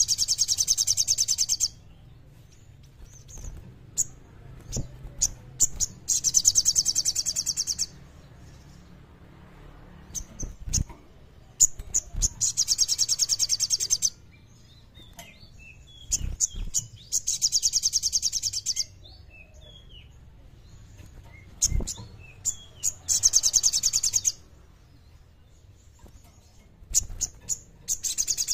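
Ruby-cheeked sunbird (sogon) singing in full song: bursts of a very high, rapid, chattering trill about every five to six seconds, each lasting a second or two, with short thin chips between them.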